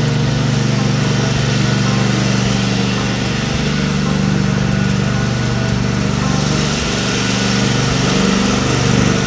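Small tractor engine running steadily while pulling a loaded wagon, its pitch wavering up and down in the last few seconds as the revs change.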